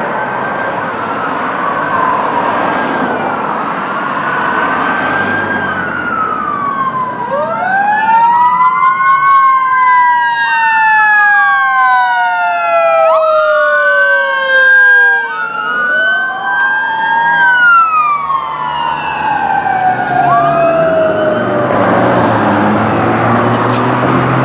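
Emergency sirens of a fire engine and an ambulance responding, loud: first a single slow wail rising and falling, then from about a quarter of the way in two or more sirens overlapping, sweeping up and down at different rates. A deeper vehicle rumble builds near the end.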